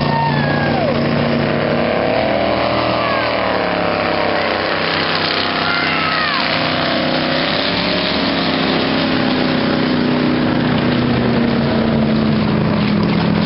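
Motorboat engines running steadily, several engine tones drifting slowly up and down in pitch, with a few short chirps over the top.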